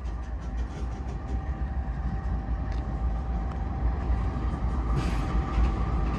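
Covered hopper cars of a freight train rolling slowly past below, a steady rumble of wheels on rail that grows a little louder. A faint steady whine runs over it.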